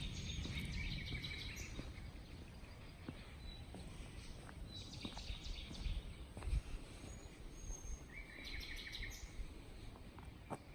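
Small songbirds singing in three short chirping bouts over a low rumble of distant thunder that fades away during the first few seconds. A single sharp click comes near the end.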